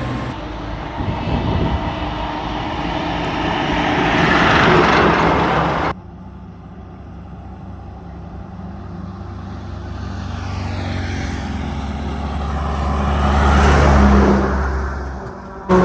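Heavy Tata diesel trucks passing on a highway. One truck goes by, loudest about five seconds in. The sound then cuts off abruptly, and a second truck approaches with a steady low engine note, growing louder until it passes near the end.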